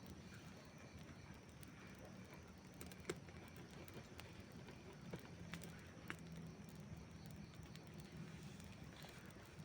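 Campfire burning quietly: a soft, steady low hiss with a few scattered sharp pops of crackling wood, the loudest about three seconds in and a small cluster around five to six seconds.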